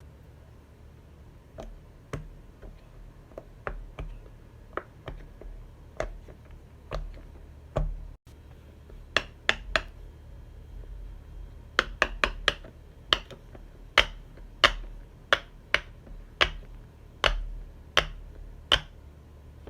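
Silicone pop-it fidget toy bubbles pressed one after another, each giving a short sharp pop. The pops are irregularly spaced, with quicker runs of pops about nine seconds in and from about twelve to fifteen seconds in.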